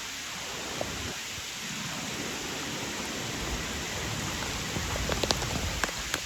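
Rain falling steadily and getting heavier, with sharp taps of drops striking close by starting near the end and coming more often.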